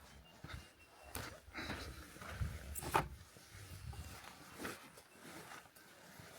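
Footsteps on the ground, uneven soft thumps, with one sharp knock about three seconds in.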